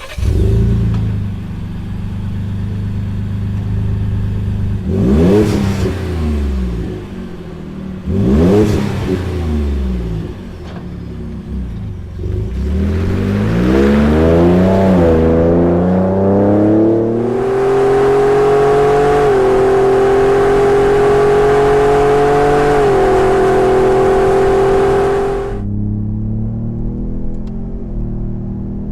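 2017 Ford Raptor's twin-turbo 3.5-litre EcoBoost V6 through a Borla aftermarket exhaust, idling and then revved: two quick blips of the throttle, a longer climb in revs, then held steady at raised revs for about eight seconds before dropping back to idle near the end.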